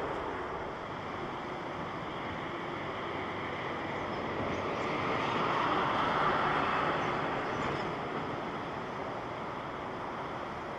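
Jet engine noise of a Boeing 787-9 Dreamliner airliner passing by, a steady rushing roar that swells to its loudest about six seconds in and then fades.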